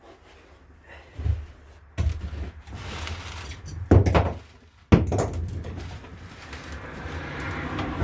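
Several knocks and clunks of tools and parts being handled, about 2, 4 and 5 seconds in, the last one the sharpest, with shuffling and handling noise between them.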